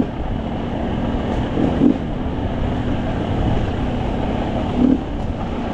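Off-road dirt bike engine running under way, with wind on the microphone; it swells briefly louder twice, about two and five seconds in.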